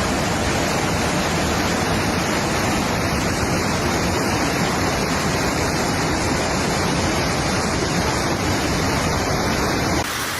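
Loud, steady rushing of water in a storm, an unbroken roar with no pauses that cuts off abruptly near the end.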